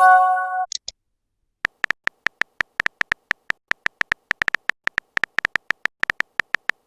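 A short chime of several held tones, the message-notification sound of a phone chat, then after a brief pause a long run of quick, irregular clicks: the keyboard typing sound of a phone messenger.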